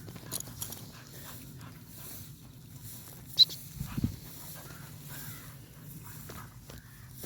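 A dog close by, breathing and moving about, with a sharp click about three and a half seconds in and a dull thump just after.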